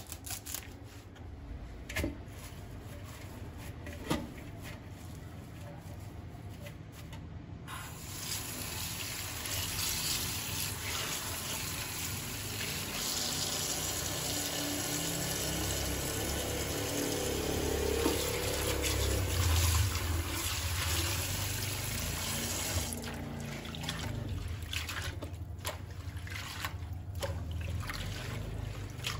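Water from a kitchen tap running into a sink, switched on suddenly about a quarter of the way in and running steadily, dropping a little near the end. A few short knocks come before it.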